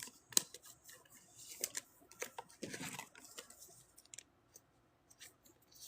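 Faint scattered clicks and short rustles of trading cards and their packaging being handled.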